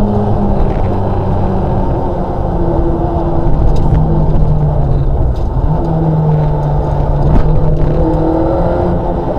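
Škoda 130 LR rally car's rear-mounted four-cylinder engine heard from inside the cabin under hard driving on a stage, its pitch dropping about two seconds in, then climbing again. A few sharp clicks come through over the engine.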